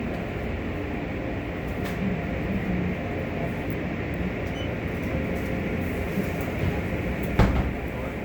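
Belanger car wash tunnel equipment running: a steady mechanical rumble with water spray. There is a single sharp knock about seven seconds in.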